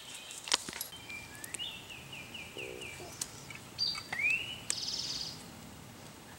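Songbirds singing in woodland: a rising whistled note followed by a quick run of about six repeated notes, then another rising note and a short buzzy trill. A single sharp click about half a second in is the loudest sound.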